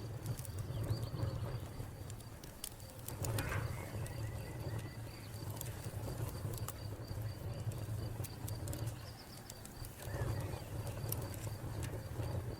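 Wood fire crackling with scattered sharp pops over a steady low rumble, while a cricket chirps in an even, rapidly pulsing high trill and birds call in the background.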